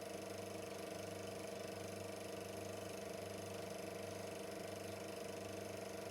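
Super 8 film projector running: a steady motor hum with a fast, even mechanical chatter from the film transport.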